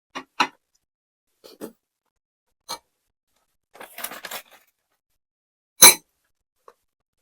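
Close-up eating sounds from a mukbang of blanched blood cockles with crispy fried shallots: a string of short wet clicks and smacks, a brief crackly run about four seconds in, and one loud sharp click near the end.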